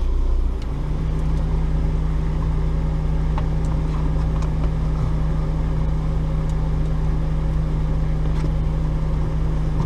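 A steady low mechanical hum with a steady tone that joins about a second in, and a few faint clicks.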